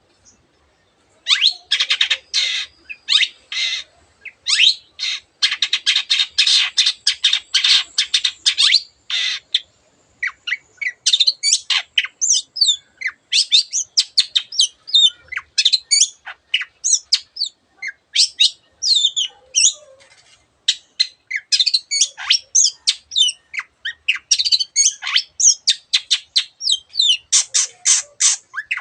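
Long-tailed shrike singing a fast, varied song. A run of harsh, scratchy notes stops briefly about a third of the way in, then gives way to quick, sharp chirps and chatter that mimic other birds.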